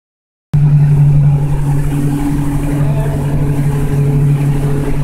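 Boat's engine running steadily, a loud even drone with a strong low hum, starting about half a second in, with faint voices under it.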